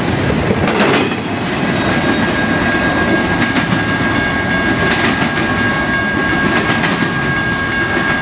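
Double-stack intermodal freight train's well cars rolling past in a steady, loud rumble, with the wheels clacking now and then over rail joints. A steady high whine joins in about a second and a half in.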